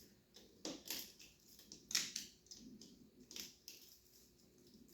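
Hand tools clicking and knocking on the motorcycle's metal parts while the coolant hose is being worked loose. There are three louder knocks about a second and a half apart among fainter handling noises.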